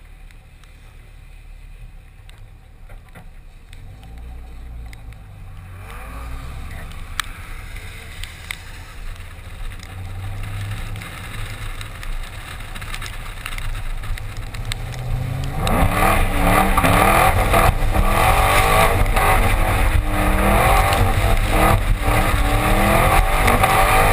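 2010 Chevrolet Camaro SS's 6.2-litre V8, picked up from outside the car, pulling away at low revs and slowly getting louder. About sixteen seconds in it is revved hard, its pitch rising and falling again and again as the car drifts on wet pavement, over a steady rush of noise.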